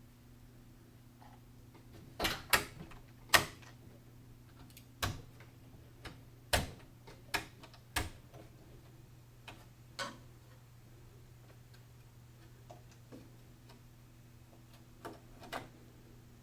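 Irregular sharp clicks and knocks of PC hardware being handled and fitted, a dozen or so, clustered in the first half and sparser toward the end, over a low steady hum.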